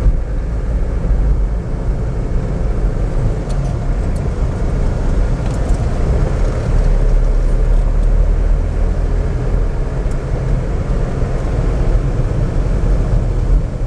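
Car engine and road noise heard from inside a moving car: a steady low rumble.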